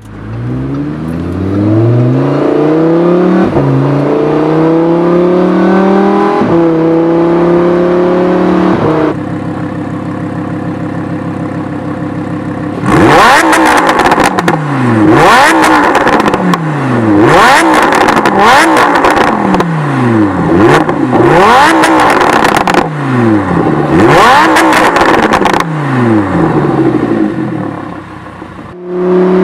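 The V10 engine of a 2015 Lamborghini Huracan, breathing through a Fabspeed Supersport exhaust, pulls up through the gears, its pitch climbing and dropping at each of three upshifts. It then runs steady for a few seconds, and from about halfway through is revved hard in repeated sharp throttle blips, about one a second.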